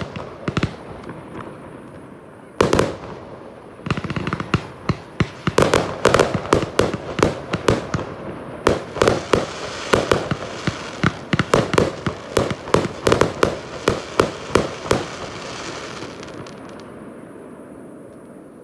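Fireworks display: one loud bang, then from about four seconds in a rapid barrage of sharp bangs, several a second, lasting about ten seconds, before dying away into a fading echo.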